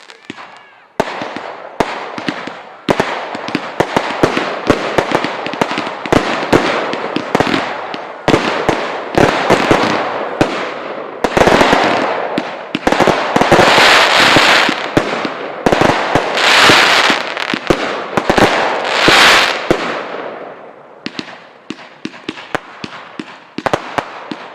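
A fireworks display: a rapid barrage of shell bursts and bangs with crackling, which builds to a dense, loud finale-like cluster in the middle and thins to scattered bangs near the end.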